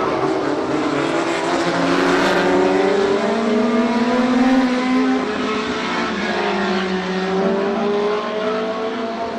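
Engines of several historic racing sports cars running together on track, their notes rising and falling as they accelerate and pass.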